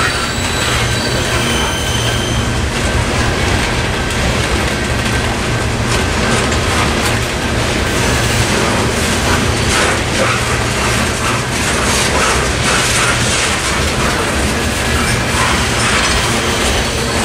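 Coal hopper cars of a freight train rolling steadily past, a continuous rumble with the clickety-clack of wheels over the rail joints. Faint wheel squeal rises and fades within the first few seconds.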